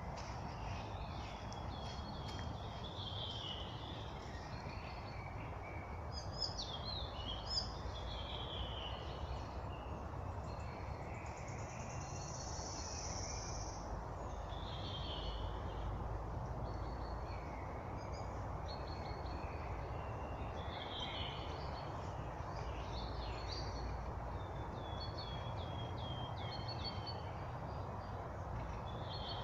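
Several songbirds singing and calling in spring woodland, with short chirps and trills scattered throughout, over a steady low background rumble.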